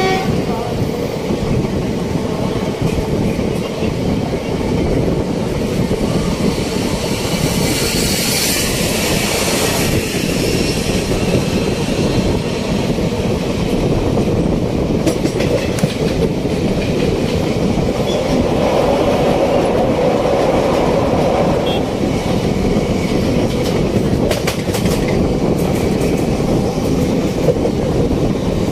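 Indian Railways express passenger coach running at speed, heard from its open door: a steady loud rumble of wheels on rail with a clickety-clack over the rail joints, and sharper clacks now and then.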